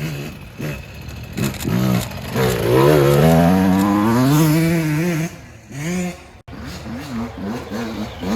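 Dirt bike engine revving up and down, its pitch climbing and falling repeatedly as the throttle is worked, loudest in a long rising pull a few seconds in. Near the end the sound breaks off abruptly and a bike engine goes on at a lower, choppier pitch.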